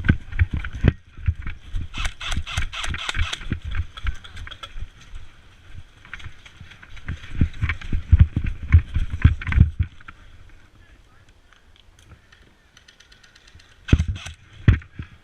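Footsteps of a player running: a quick run of heavy thuds with gear clattering on the body-worn camera, in two spells about six seconds apart, then brief sharp clicks near the end.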